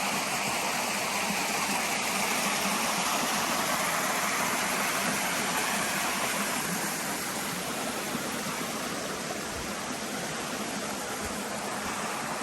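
Steady rushing of a waterfall, growing a little quieter about halfway through, with a couple of soft low thumps near the end.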